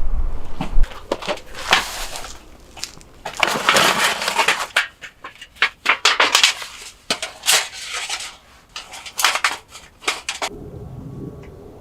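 Irregular crunching noises in short bursts that stop suddenly about ten and a half seconds in, leaving a faint steady hum.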